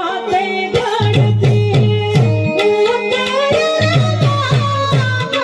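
Music for a Gujarati devotional garba to Mahakali: sung melody over a steady low drum beat, about four strokes a second.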